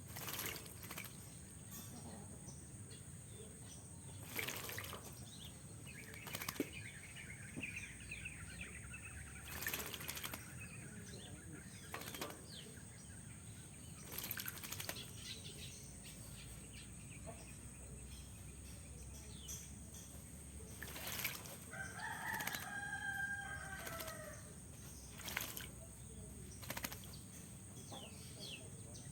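Oriental magpie-robin bathing in a water cage, fluttering its wings and splashing in short bursts every few seconds. Drawn-out bird calls come in twice, briefly about a quarter of the way in and longer about three-quarters of the way in.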